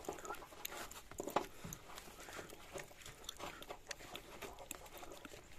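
Faint, scattered clicks and knocks as the fastening that holds a truck's jack in its mounting is worked loose by hand.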